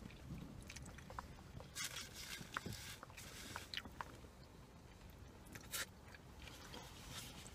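Faint chewing and mouth sounds of people eating: scattered soft smacks and clicks as a bite is chewed.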